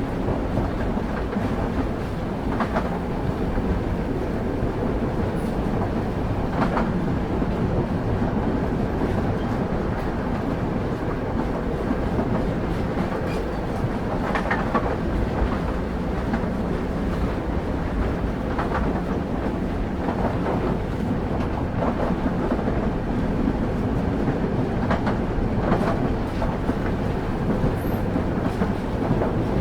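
Train wheels rolling on the track: a steady low rumble with a few irregular clacks over rail joints.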